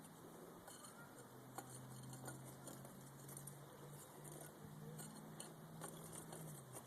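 Near silence: faint background with a low steady hum that fades out near the end and a few light clicks.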